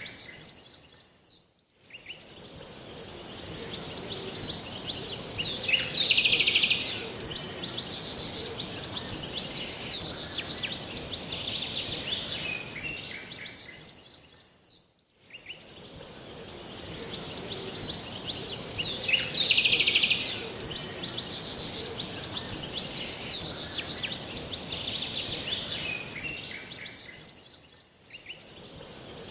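Birds chirping and singing over a steady high hiss, with a loud burst of chirping about 6 seconds in and again about 19 seconds in. The sound fades out and back in three times, about every 13 seconds, as a short recording repeats on a loop.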